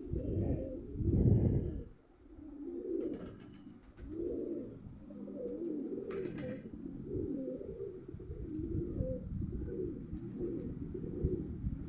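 Pigeons cooing over and over, low wavering calls overlapping one another. Two short rustles, one about three seconds in and one about six seconds in.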